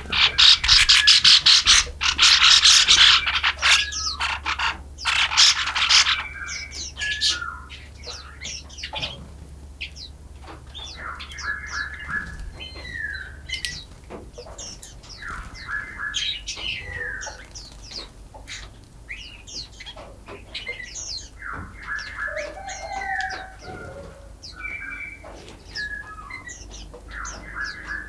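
Forest songbirds singing and chirping. A loud, rapid chattering trill runs for the first six seconds, then gives way to scattered short chirps and repeated falling whistled notes.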